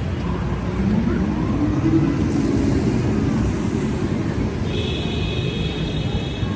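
Busy city street ambience: a steady rumble of traffic and the voices of passers-by. A high, steady tone starts near the end.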